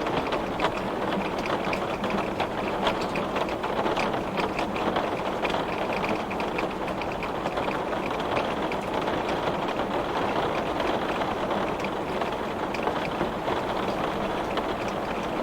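Heavy rain pelting a glass pane: a steady dense wash of noise full of fine drop ticks, without letup.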